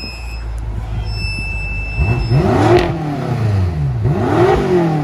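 BMW F10 M5's twin-turbo V8 revved twice, each rev climbing and falling away, through the stock exhaust with its mufflers still on. A steady high-pitched tone sounds in the first two seconds.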